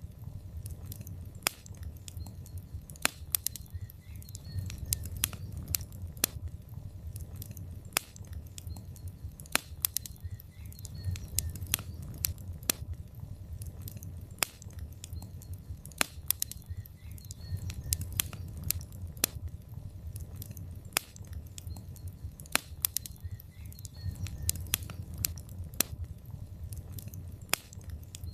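Wood logs burning in a fireplace, crackling with frequent, irregular sharp pops over a steady low rumble of the fire.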